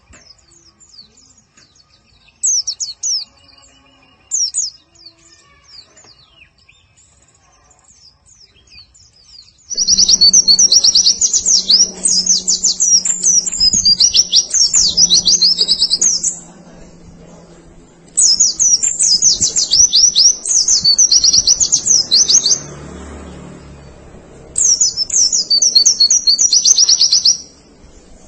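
White-eye (pleci) song: faint scattered chirps, then three loud bursts of rapid, high twittering with short pauses between them.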